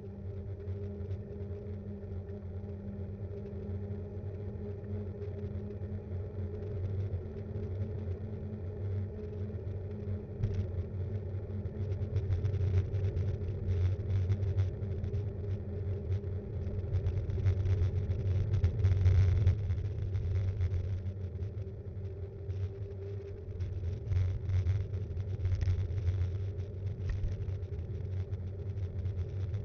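Rumble of wind on the microphone and tyre and road noise from an action camera mounted on a Btwin Rockrider 5.1 mountain bike being ridden. It grows louder and rougher about twelve seconds in, with many small knocks and rattles from bumps in the road.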